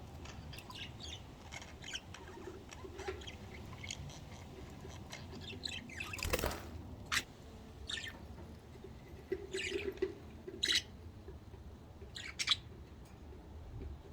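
Budgerigars chirping: short, scattered chirps, with a brief louder rustle about six seconds in.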